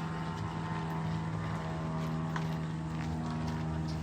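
An engine running at a steady speed: an even, unchanging hum, with a few faint light ticks over it.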